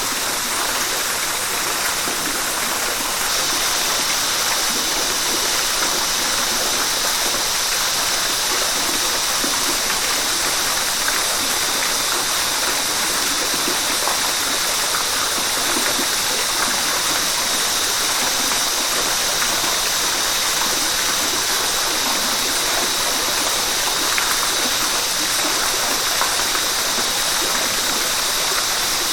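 Steady rushing of river water, an even unbroken flow; a brighter high hiss sets in about three seconds in.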